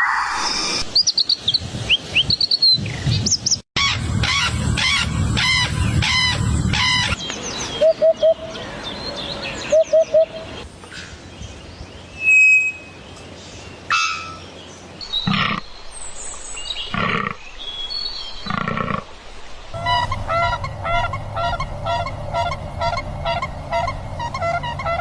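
A series of different bird and animal calls, switching abruptly every few seconds: whistled rising notes, rapid chirping, a few short lower calls in the middle, and from about 20 s a fast, regular chirping.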